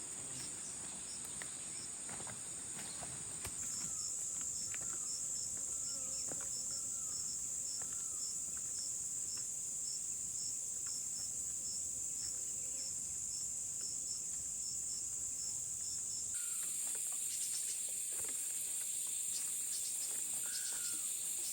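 Insects shrilling steadily in forest, a high continuous drone with a regular pulsing chirp about twice a second. The drone shifts abruptly in loudness twice, with faint scattered ticks beneath.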